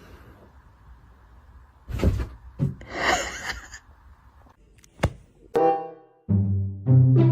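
Two dull thumps and a short rustling scuffle, then a sharp click, followed about five and a half seconds in by music with low bowed-string and brass notes that is the loudest sound.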